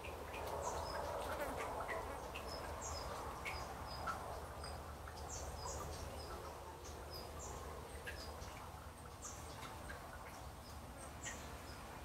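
Backyard birds giving scattered short, high chirps and calls, some repeated notes, over a steady low background hiss.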